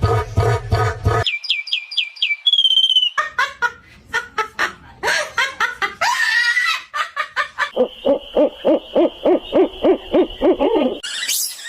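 A quick succession of different animal and bird calls, one after another: a run of short falling whistles, clicking, a gliding cry, and near the end a rapid pulsing hoot-like call, about four a second, under a steady high whistle.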